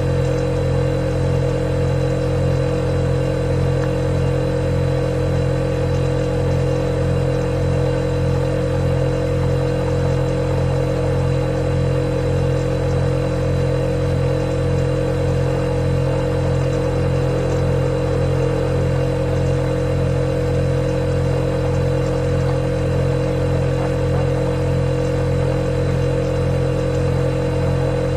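Refrigerator compressor running, a steady low hum with a higher whine over it.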